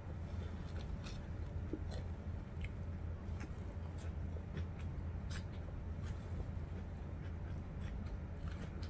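Eating sounds: chewing with faint, irregular clicks and smacks of the mouth and food, over a steady low hum.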